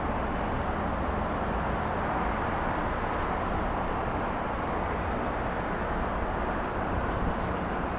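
Steady outdoor urban background noise: an even low rumble and hiss with no distinct bangs or events.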